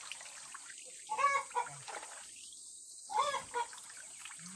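A chicken clucking, with two short calls about two seconds apart.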